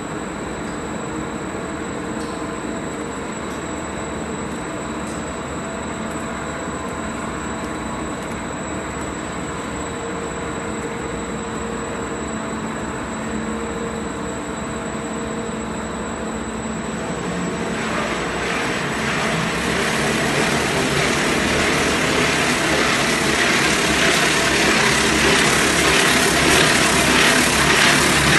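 Multi-block wire drawing machine running steadily while drawing low-carbon steel wire, a dense mechanical noise with a thin high whine. From about eighteen seconds in, a hissing noise builds and gets steadily louder.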